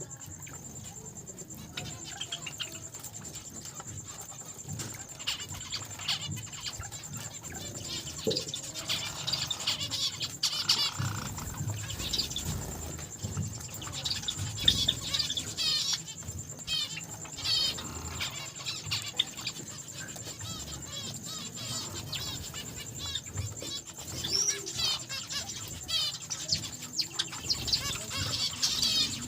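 A mixed group of small cage finches chirping, with many short calls coming in quick runs.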